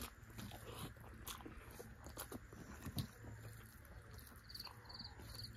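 Faint close eating sounds: chewing and wet mouth smacks, with scattered soft clicks as hands mix rice and chicken curry. Three short high chirps come near the end.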